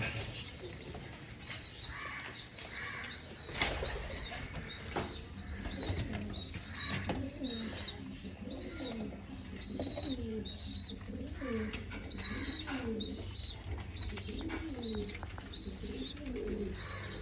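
Domestic pigeons cooing in a loft, with repeated low, bending coos, while a thin high chirp repeats about twice a second.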